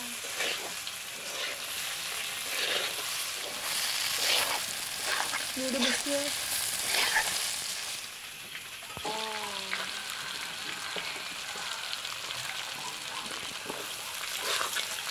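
Chicken pieces sizzling in hot mustard oil in an iron karahi, with a metal spatula scraping and stirring against the pan about once a second. The sizzle dips briefly about eight seconds in.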